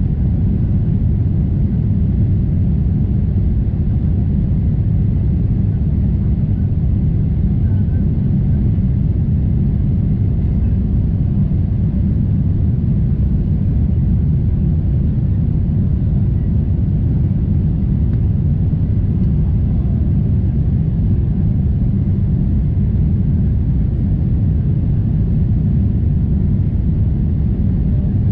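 Steady low rumble of a Boeing 747-8 in flight, as heard inside the cabin: the drone of its GEnx engines mixed with airflow noise, unchanging throughout.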